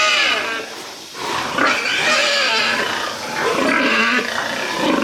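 Pigs squealing loudly in a string of drawn-out, high-pitched calls, one after another with short breaks between them.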